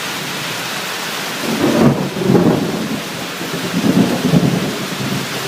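Steady rain on a tin roof, with a roll of thunder rumbling in about a second and a half in and swelling twice before fading.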